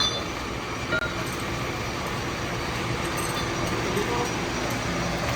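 Steady mechanical noise of metalworking machinery running, with a couple of light metallic clicks near the start and about a second in.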